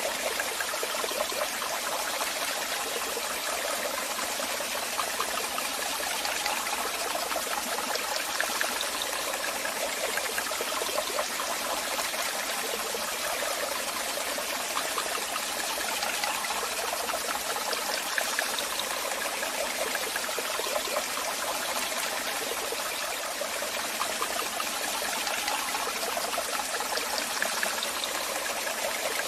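Waterfall: a steady rush of falling water with fine splashing, even and unbroken, light in the low end.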